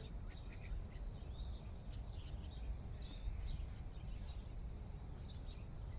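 Outdoor ambience: a steady low rumble, like wind on the microphone, with faint, scattered short bird chirps.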